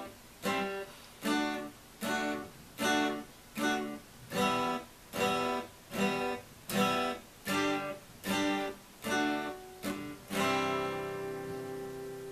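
Instrumental ending of an acoustic cover song: a strummed string instrument plays short, choppy chords about every three-quarters of a second. About ten seconds in, a final chord is left to ring out and slowly fade.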